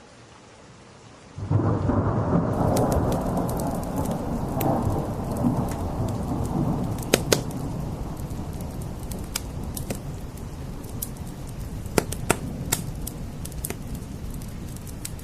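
Steady rain, then a sudden clap of thunder about a second and a half in, a deep rumble that slowly dies away over several seconds. From then on a wood fire crackles with sharp, scattered pops over the rain.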